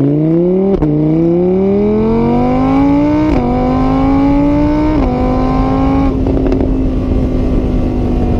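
A motor vehicle engine accelerating through the gears: its pitch climbs, drops back at each of three upshifts, then holds steady at speed.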